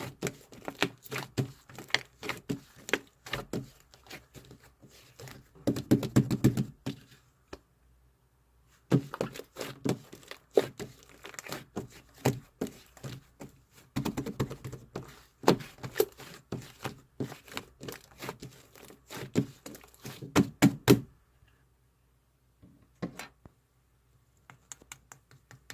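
Rapid runs of light taps and clicks, broken by clusters of heavier knocks. The runs stop for pauses, and the sound is nearly silent after about 21 seconds with only a few isolated clicks.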